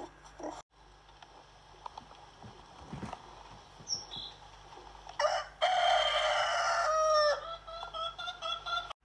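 Rooster crowing once, a loud call of about two seconds beginning about five seconds in that drops in pitch at the end, followed by a quick series of short clucking notes. Faint chirps are heard before it.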